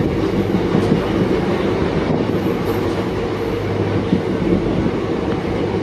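Passenger train running behind an EMD WDP4D diesel locomotive, heard from aboard an ICF coach. A steady low rumble of wheels on track is joined by a constant low hum.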